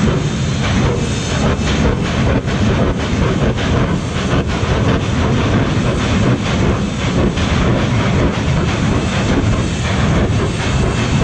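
Jet engine of a jet-powered drag car running loud and steady, with a rough crackle through it.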